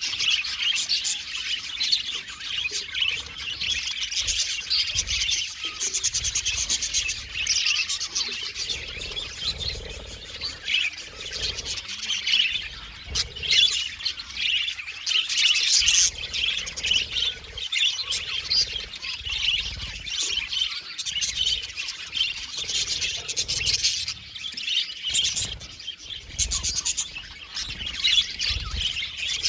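Several budgerigars chirping and warbling in continuous chatter, with occasional low bumps underneath.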